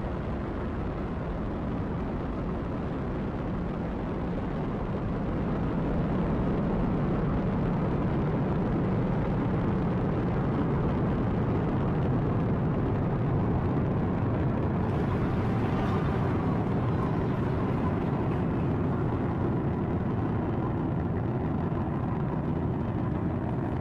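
Falcon 9's nine Merlin 1D first-stage engines in a steady, deep rumble during ascent, swelling slightly a few seconds in, with a brief higher hiss about sixteen seconds in.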